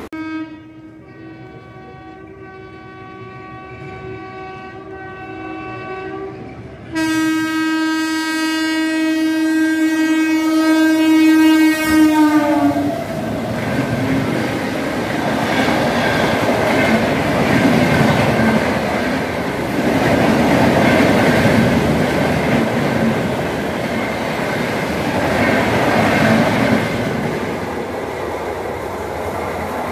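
A passenger train passing through: the locomotive's horn sounds in two long blasts, the second louder, its pitch dropping as the engine goes by about twelve seconds in. Then the steady rumble and wheel clatter of the coaches rushing past.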